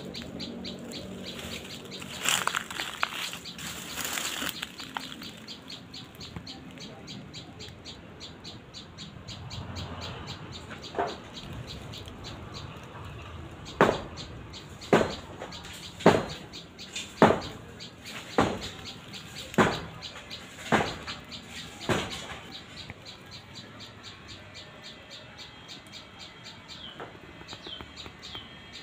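Birds calling: a fast run of high ticking chirps, about four or five a second. From about halfway through come eight louder, sharp calls, roughly one a second.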